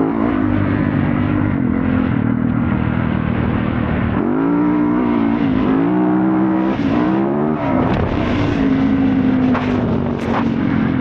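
Motorcycle engine running on the move. Its pitch rises and drops several times between about four and eight seconds in, as it revs and changes gear, then holds steady again.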